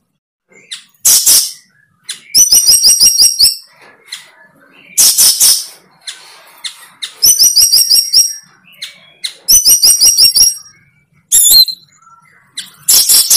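A bird singing close by in loud phrases a couple of seconds apart, with silences between. Harsh buzzy bursts alternate with quick runs of clear, high, repeated notes.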